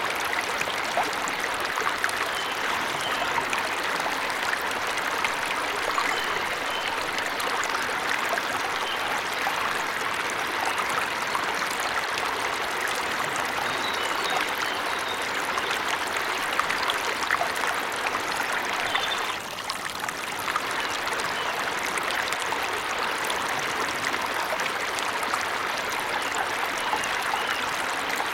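Steady rushing and splashing of running water from a forest waterfall, briefly dropping in loudness about two-thirds of the way through.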